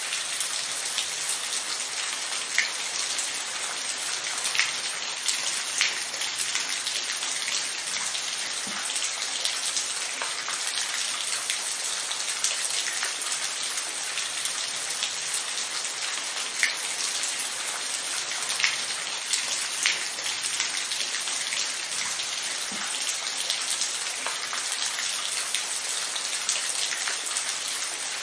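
Steady rain falling, an even hiss with individual drops pattering sharply here and there.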